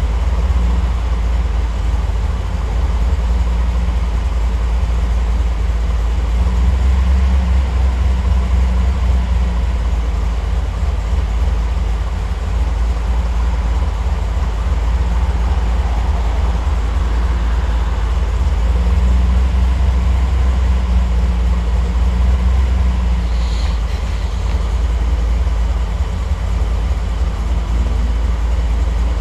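Triumph TR8's Rover V8 idling through its warm-up, the note swelling and easing a couple of times.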